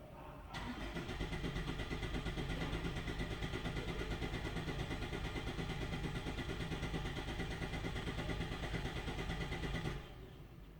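Ford Escape 1.6 L turbocharged direct-injection engine turned over automatically by a scan tool for an injector flow test, a steady pulsing run that starts about half a second in and cuts off about ten seconds in.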